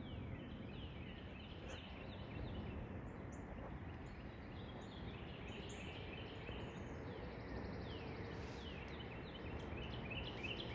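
Songbird singing outdoors: series of clear, down-slurred whistled notes repeated several times, with short higher chirps from other birds, over a steady low background rush.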